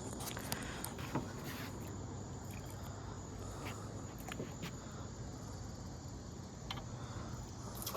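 Crickets chirping in a steady high-pitched chorus, with a few faint clicks scattered through.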